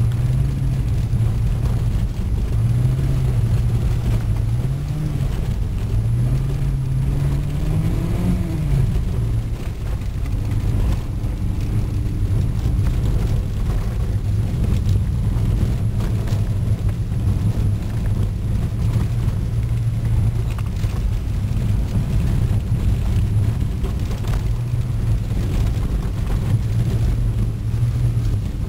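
1989 VW GTI's 2.0-litre 16-valve four-cylinder engine, heard from inside the cabin while the car is driven through a rally course. The revs climb and dip through the first few seconds, peak about eight seconds in and drop sharply, then hold steadier over a continuous rumble.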